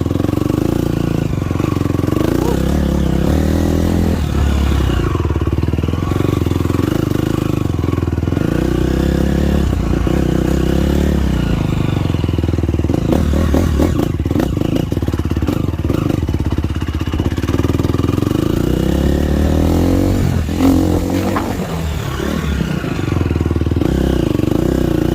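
Motocross dirt bike engine running hard and revving, its pitch rising and falling over and over as the rider accelerates and backs off around the track.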